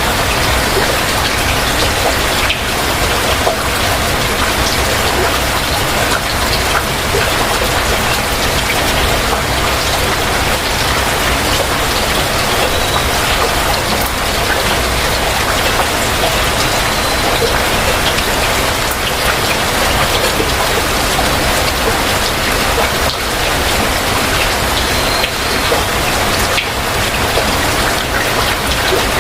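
Heavy rain falling steadily, a dense hiss of many small drop hits that does not let up.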